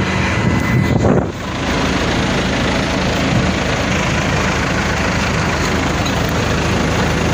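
Heavy diesel engine running steadily; a little over a second in its note shifts and a deeper low pulsing sets in and holds.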